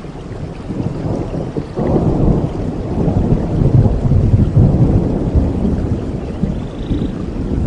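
Rolling thunder over steady tropical rain: the rumble swells about a second in, is loudest in the middle, then slowly eases off.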